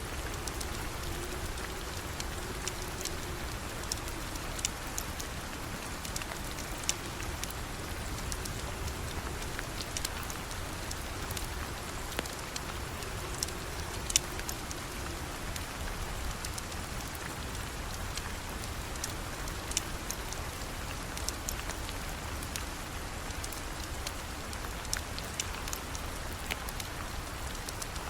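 Steady rain falling, with scattered sharp clicks and pops throughout.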